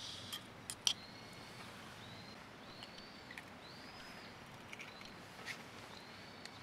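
A bird calling outdoors, repeating short thin whistled notes that rise and fall, with a few light clicks in the first second.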